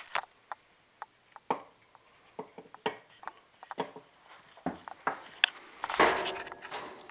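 Irregular light clicks and taps as small pieces of a refrigerator compressor's overload relay are worked out of and into its plastic housing by hand, with a brief louder rustle about six seconds in.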